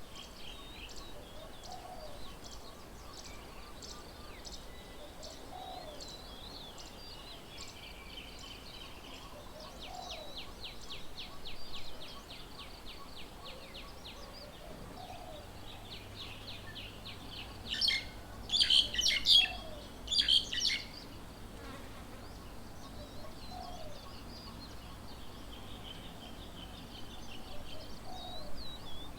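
Birds calling at a bird table: high, rapid chirping trills through the first half, then a loud, harsh burst of calls about two-thirds of the way through. A faint short low note repeats every few seconds throughout.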